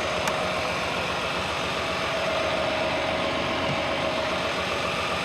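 Semi truck's diesel engine idling steadily, with a single short click about a third of a second in.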